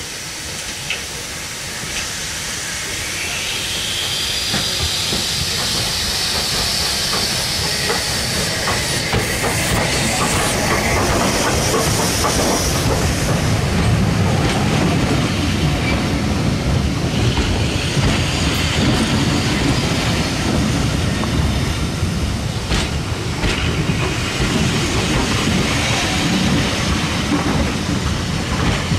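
A standing steam locomotive, an LMS Black Five, hissing as it blows off steam, then a train of passenger coaches running past close by, wheels rumbling and clacking over the rail joints, growing louder through the second half.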